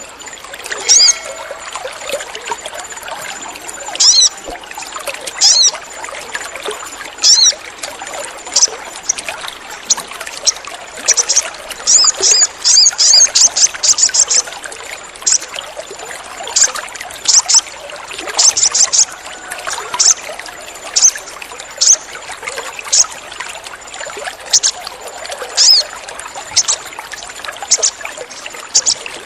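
Little spiderhunter (sogon) giving sharp, high, repeated chirping calls, singly or in quick runs every second or two, over a steady background of trickling water. It is a lure recording meant to set a quiet caged sogon singing.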